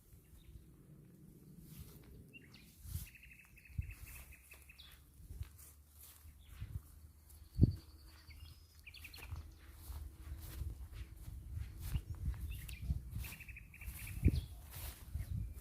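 Small birds chirping, with a short, rapid trill that comes back three times, over a low rumble. Two sharp knocks stand out, the louder about halfway and another near the end.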